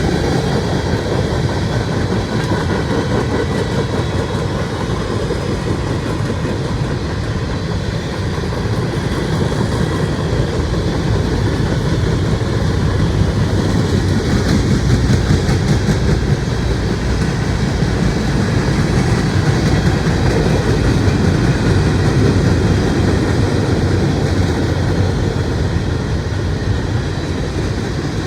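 Freight cars of a mixed freight train rolling past, wheels clicking steadily over the rail joints.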